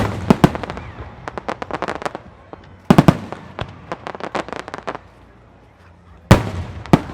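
Aerial fireworks shells bursting overhead in a display show: a group of sharp bangs at the start, a loud cluster about three seconds in trailing off into a run of rapid crackling reports, then one big bang near the end.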